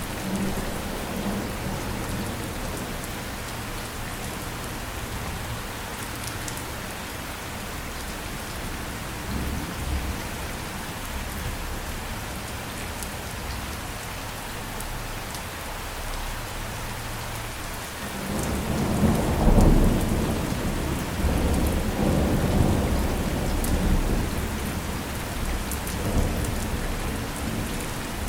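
Steady rain falling, with a long rumble of thunder that starts about two-thirds of the way in, is loudest a second or two later and rolls on in swells almost to the end.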